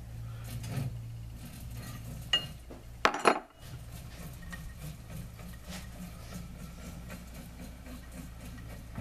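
Metal tools and lathe parts being handled and set down, with small clinks and a sharp double knock about three seconds in, over a steady low hum.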